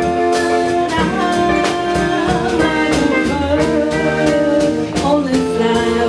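Live band playing a pop song, with a drum kit keeping the beat under held chords and a singing voice.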